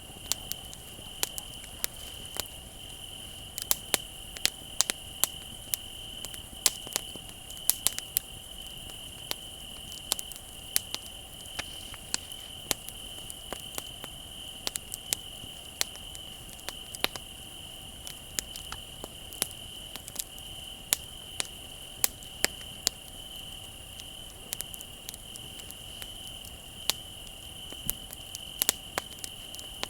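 Wood fire crackling, with frequent sharp, irregular pops, over crickets chirping in a steady, unbroken trill.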